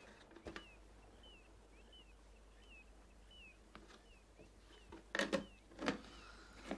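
A small bird chirping faintly over and over, one short call about every two-thirds of a second. A couple of sharp knocks sound near the end.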